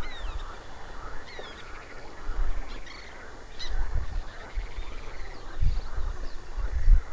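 Birds calling: scattered short chirps and whistles, over low thumps near the middle and end.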